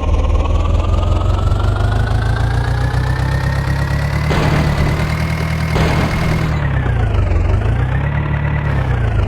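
John Deere 5055 tractor's three-cylinder diesel engine running, its revs climbing slowly over the first four seconds or so and holding, then dropping about seven seconds in, rising again and falling near the end. Two short hisses come about four and a half and six seconds in.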